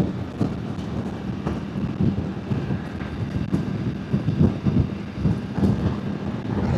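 Wind buffeting a motorbike rider at speed, picked up by a clip-on wireless mic on its high noise-cancellation setting: a gusty, uneven low rumble over a steady low drone from the motorbike's engine.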